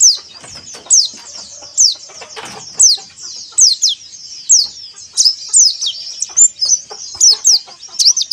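White-eyes (pleci) calling: sharp, high notes that sweep downward, about one a second. In the second half they come faster and mix with twittering, over a background of faint clicks.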